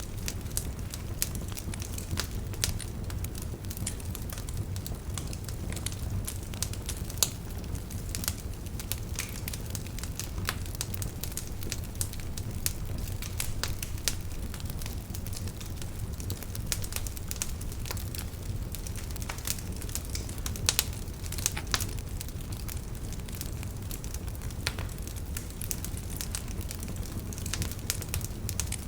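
Wood fire burning in a fireplace: a steady low rumble of flame with frequent irregular pops and crackles, a few sharper snaps among them.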